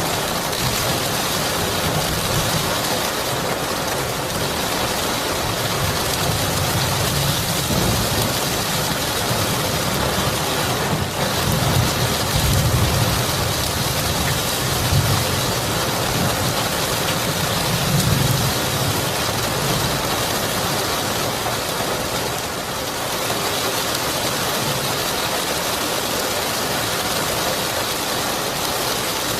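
Steady rain, with low thunder rumbling several times, loudest around the middle.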